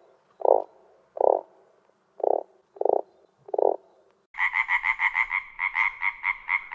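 Frogs croaking: five low, separate croaks about a second apart, then a quicker, higher-pitched run of croaks at about five a second.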